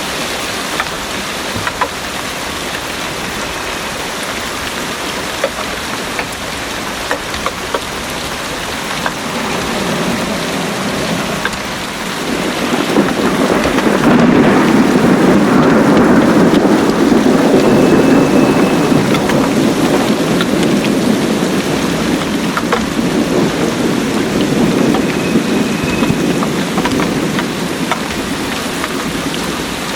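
Heavy rain pouring steadily. About twelve seconds in, a long roll of thunder builds, rumbles for over ten seconds and slowly fades under the rain.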